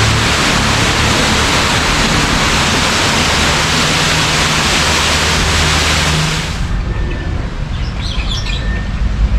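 Waterfall rushing, a steady, even wash of falling water that cuts off abruptly about two-thirds of the way through. After it, small birds chirp over a low rumble.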